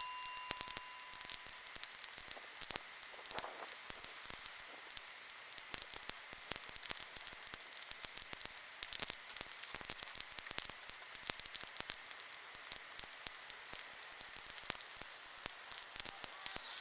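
Wood fire crackling in a fire pit: a dense, irregular run of small pops and snaps.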